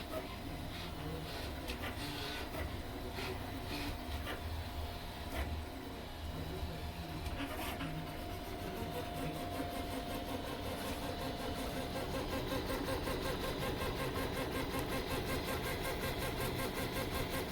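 FDM 3D printer's stepper motors whining and buzzing as the print head makes fast back-and-forth moves at up to 270 mm/s under Klipper firmware, printing at 100% infill. About twelve seconds in, the sound settles into a quick, even, repeating rhythm of direction changes and gets a little louder.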